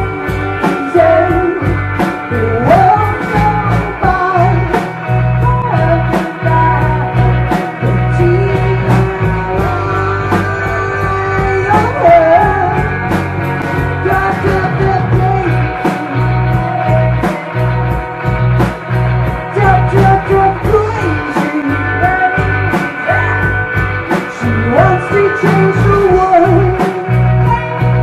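A rock band playing live, with a steady drum beat over a heavy bass line.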